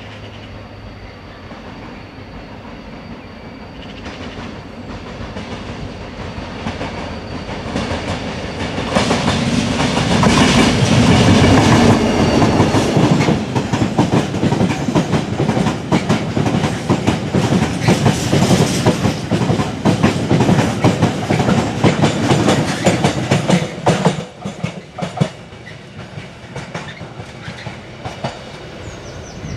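Tara Mines freight train: a diesel locomotive approaching, then a long rake of box wagons rolling past over jointed rail, wheels clacking rapidly over the rail joints. The clatter drops sharply about two-thirds through as the end of the train passes, then fades.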